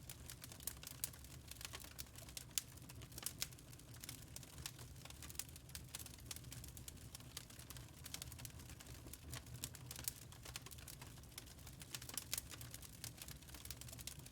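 Wood fire crackling in a fireplace: many small, irregular pops and snaps, a few louder ones standing out, over a low steady rumble.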